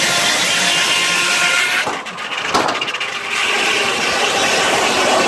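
Sawmill blade, belt-driven by a 1926 Keck Gonnerman steam traction engine, running loudly through a log. The cutting sound drops off for about a second around the middle, with one short sharp crack, then picks up again.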